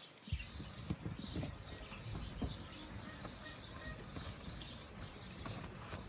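Birds chirping repeatedly in the background, over a low rumble with scattered soft knocks that comes in just after the start.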